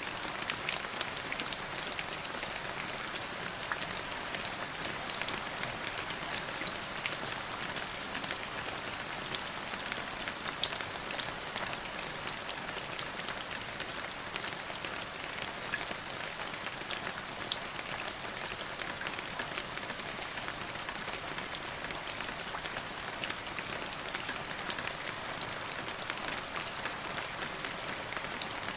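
Steady rain falling, with many individual drops pattering sharply on a hard surface. No thunder.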